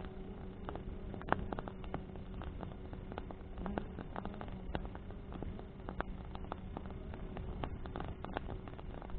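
Bonfire of burning branches crackling, with irregular sharp pops over a low rumble of flame and wind. One pop about a second in is louder than the rest. A faint steady hum runs underneath.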